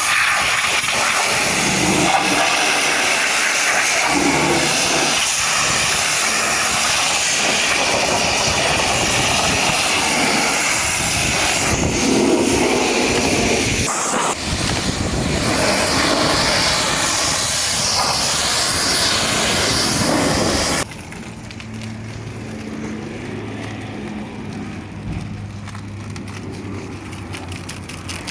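High-pressure water jet blasting a muddy truck: a loud, steady spraying hiss that cuts off suddenly about three-quarters of the way through, leaving a quieter low steady hum.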